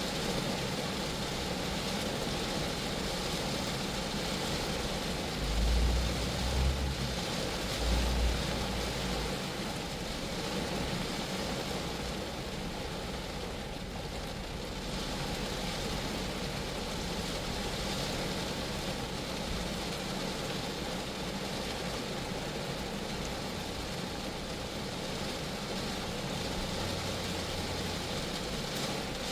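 Rain falling steadily on a Geo Metro car, an even patter, with a few brief low rumbles about six to nine seconds in.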